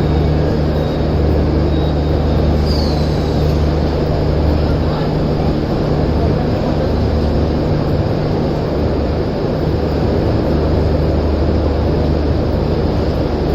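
Passenger express train in motion: a steady running rumble with a constant low hum, and a brief faint high squeal about three seconds in.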